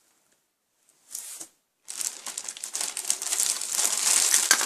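Packaging crinkling and rustling as an item is handled and unwrapped: a brief rustle, then steady crackling from about two seconds in that grows louder toward the end.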